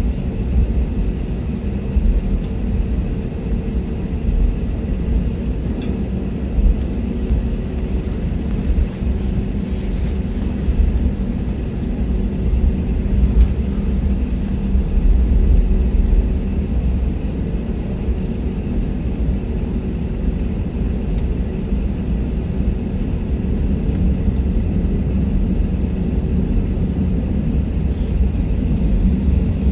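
Steady jet airliner cabin noise: a continuous low engine and airflow rumble with a steady hum.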